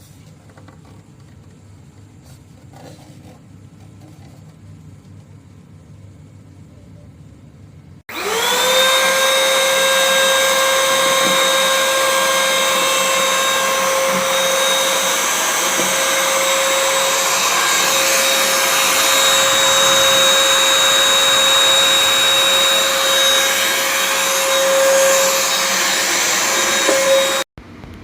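Eluxgo SVC1016 vacuum cleaner switched on about a third of the way in, its motor spinning up within a second to a steady high whine over a rush of air. It runs for about twenty seconds and cuts off abruptly near the end.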